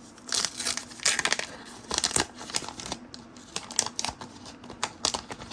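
Irregular rustling, crinkling and light clicks of trading cards being handled and flipped through by hand.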